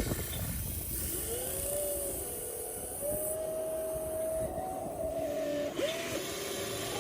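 Small electric motors of a radio-controlled toy excavator whining in short runs, their pitch rising and falling as each motor starts, holds and stops, over a steady low rumbling noise.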